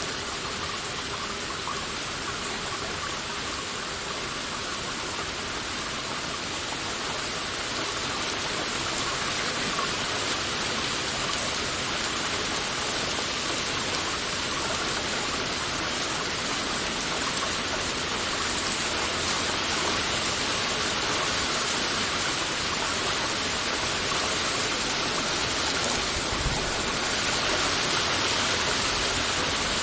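Heavy rain falling steadily, an even dense hiss of drops with no pauses, growing slightly louder over the stretch.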